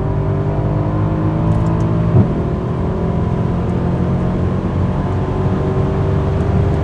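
Mercedes-AMG C63 estate's 4-litre twin-turbo V8 running at a steady cruise, heard from inside the cabin with road noise. A single short thump about two seconds in.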